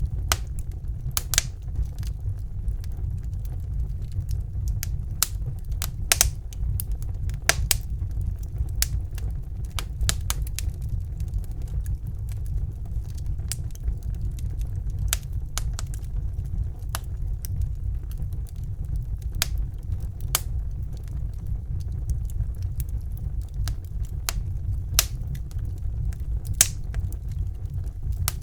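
Wood fire burning in a fireplace: steady low rumble of the flames with irregular sharp crackles and pops.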